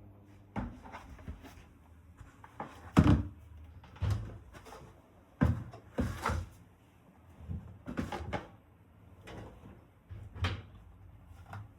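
A series of irregular knocks and clunks of household objects being handled, about a dozen in all, the loudest about three seconds in.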